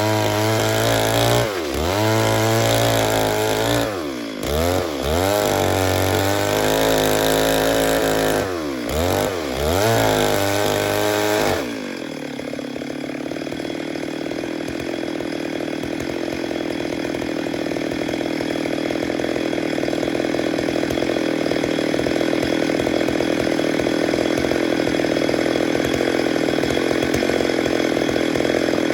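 Stihl MS 382 two-stroke chainsaw cutting wood, its engine note sagging and recovering several times under load. About twelve seconds in it changes abruptly to a steadier, lower running.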